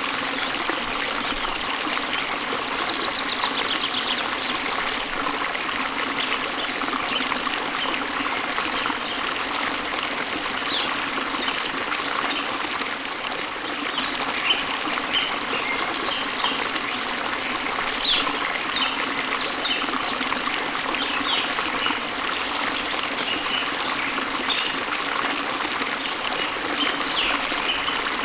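Steady rush of running, splashing water from a waterfall or stream, with small birds chirping over it: a short trill a few seconds in, and scattered brief chirps through the second half.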